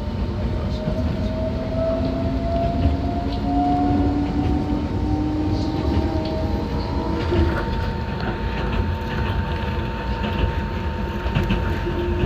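Enoden electric train running, heard from inside the car: a steady low rumble of wheels on track. The traction motor whine rises in pitch over the first few seconds as the train gathers speed, and scattered clicks from the rails come in the second half.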